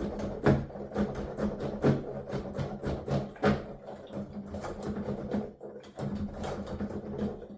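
Piano keys being played with the instrument's sound going only to headphones: a fast, irregular clatter of key action knocks and thuds, several a second, over a faint steady hum.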